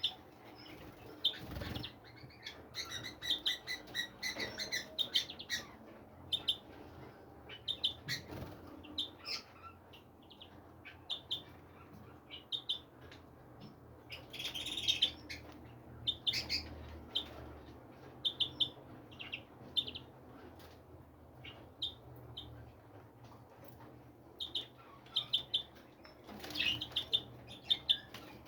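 Small birds chirping, with short high calls coming in scattered clusters, busiest near the start, around the middle and near the end.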